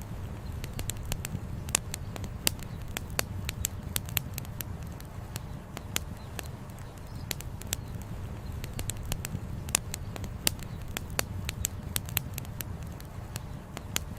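Campfire crackling: frequent sharp pops and snaps of burning firewood, several a second, over a steady low rumble.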